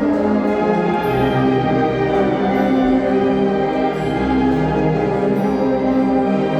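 A Mixe philharmonic wind band (banda filarmónica) playing a piece: sustained chords from brass and woodwinds over a bass line, the notes changing about every second.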